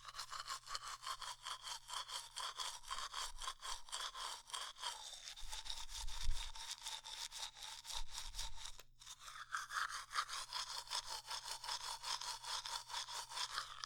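Bristle brushing strokes, quick and even at several a second, made as ASMR teeth-brushing sounds. There is a short break about nine seconds in and a couple of soft low bumps midway.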